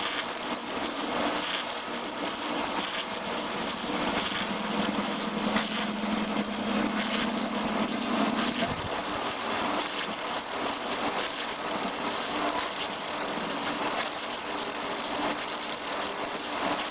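Log turning-and-milling machine for wooden house posts running with a steady mechanical noise; a low hum joins about four seconds in and cuts off suddenly about nine seconds in.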